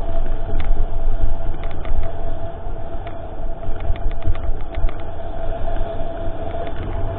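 Mountain bike riding over rough trail: continuous low rumble and wind buffeting on the GoPro, a steady whine, and scattered sharp clicks and rattles from the bike.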